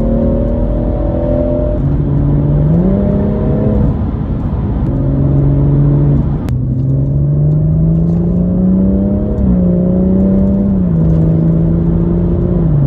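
BMW M140i's 3.0-litre B58 turbocharged straight-six heard from inside the cabin in sport mode, its engine note repeatedly rising and then stepping down in pitch through gear changes. Some of the sound is probably piped through the car's speakers, as the owner suspects.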